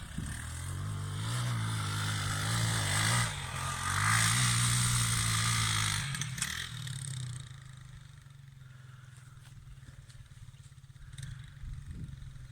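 Motorcycle engine revving under load, its pitch rising and falling, with a brief dip about three seconds in. After about seven seconds it drops to a much quieter, steady run.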